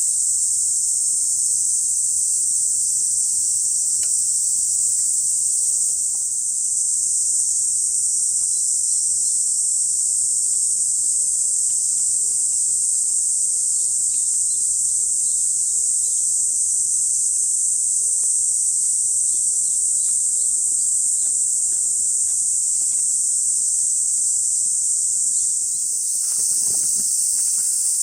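A steady, high-pitched chorus of summer insects droning without a break, with a few faint rustles near the end.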